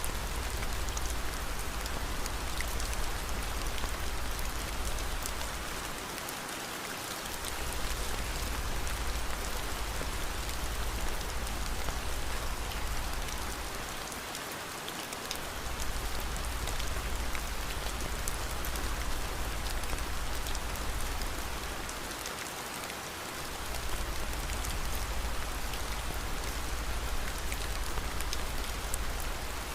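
Steady rain falling, an even hiss with scattered fine drop ticks. Under it a deep low rumble fades out briefly and returns about every eight seconds.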